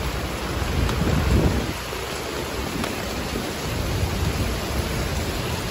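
Heavy typhoon rain with strong gusting wind, the wind rumbling unevenly on the microphone and swelling about a second in.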